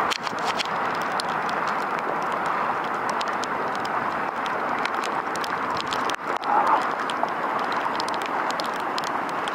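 Rain falling steadily, with many sharp ticks from drops landing close by.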